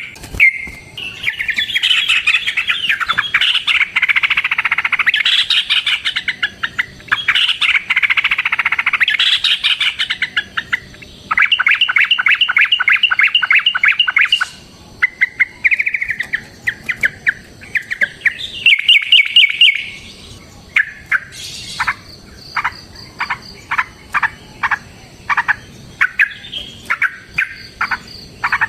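Yellow-vented bulbuls (trucukan) calling in a long, rapid chattering song for most of the first ten seconds, followed by fast even trills about halfway through and then a run of separate sharp call notes near the end.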